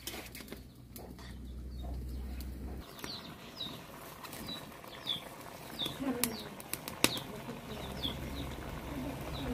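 A bird calling over and over with short, high, downward-sliding chirps, about two a second, starting about three seconds in. Scattered sharp clicks, one louder about seven seconds in, and a low rumble that cuts off about three seconds in.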